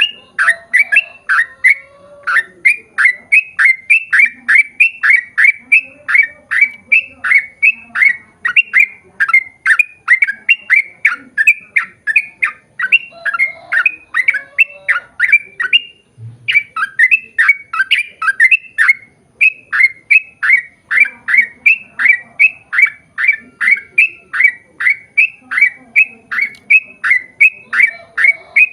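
Yellow-vented bulbul calling in a long, fast series of short chattering notes, about three a second, broken only briefly about 16 seconds in.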